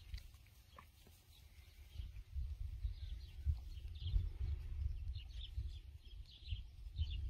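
Small birds chirping with short, high, repeated calls that grow busier after the first couple of seconds, over a low rumble of wind on the microphone.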